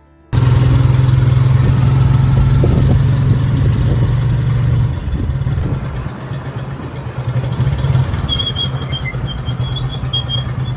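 A motor vehicle engine runs with a steady low hum under a noisy wash, steadier in the first half and more uneven later. Faint high chirping comes in over it near the end.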